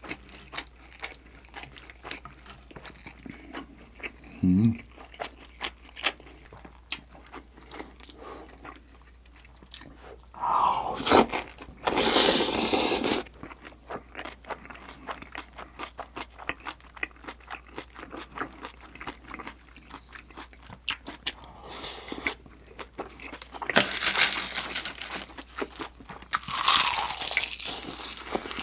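A person chewing and crunching food close to the microphone: a steady run of small wet mouth clicks, with louder crunchy stretches about a third of the way in and again near the end.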